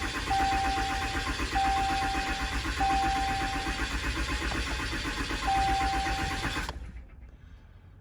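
Cummins 6.7 L turbo diesel of a 2014 Ram 3500 cranking on the starter in an even pulsing rhythm without catching, just after a fuel filter change. The cranking cuts off suddenly near the end. A steady electronic beep repeats about once a second throughout the cranking.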